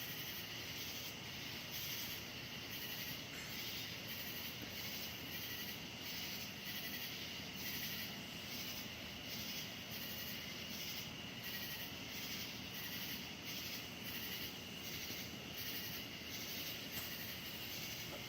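A chorus of insects calling continuously: a steady high buzz with a rapid, even pulsing of about two to three beats a second running through it.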